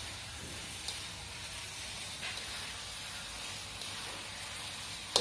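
Tofu in soy and tomato sauce sizzling in a wok with a steady hiss as a splash of added water cooks down into the sauce, with a few light scrapes of a spatula stirring.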